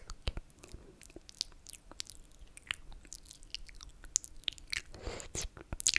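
Close-miked ASMR mouth sounds: scattered wet clicks and smacks of lips and tongue, sparse at first and busier near the end, with a short wet slurp.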